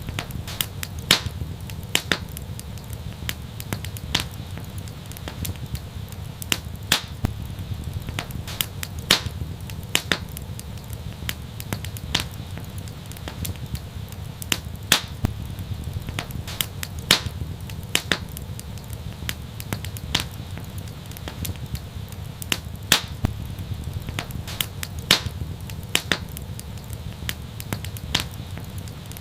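Fire in an outdoor fireplace crackling, with frequent sharp, irregular pops over a steady low rumble of the flames.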